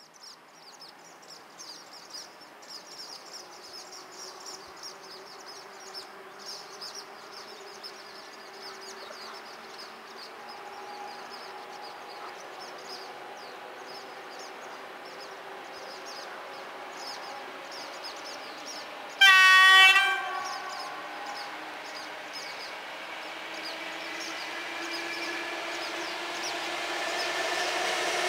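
An approaching EU07 electric locomotive sounds its horn in one short blast about two-thirds of the way through, the loudest sound here. Before that, birds chirp over a faint hum. The train's noise grows steadily louder toward the end.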